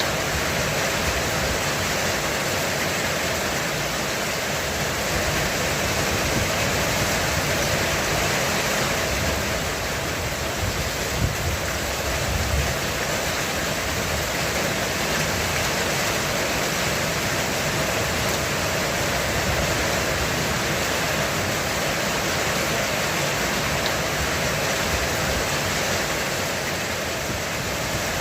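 Heavy rain falling steadily on a roof, an even unbroken hiss of drops, with a brief low rumble near the middle.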